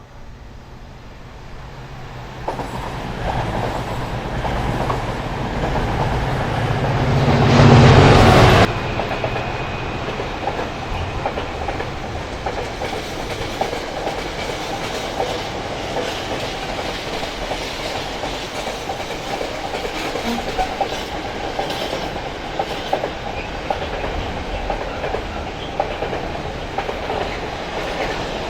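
Class 66 diesel-electric locomotive approaching and passing, its two-stroke EMD engine loudest about eight seconds in and dropping off suddenly as it goes by. Then a long train of intermodal container wagons rolls past with a steady rumble and the clickety-clack of wheels over rail joints.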